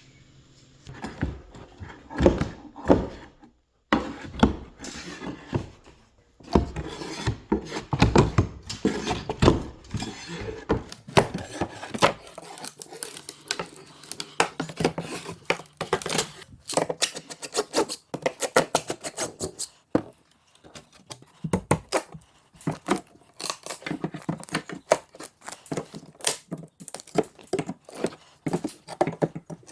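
Carpentry work on lumber: irregular knocks, taps and scraping of wood being handled and worked, with a quicker run of clicks and taps partway through.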